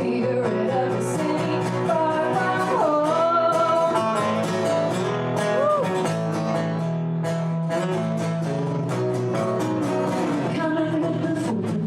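Live band music with guitar over bass and drums, and a melody line that bends up and down in pitch partway through.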